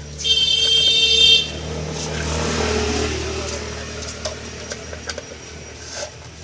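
A vehicle horn sounds for about a second, then a passing road vehicle's noise swells and fades away.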